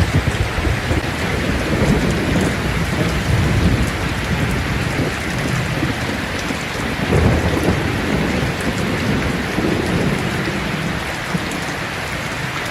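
Heavy rain drumming on a tin roof, with rolls of thunder rumbling low, the strongest one about seven seconds in.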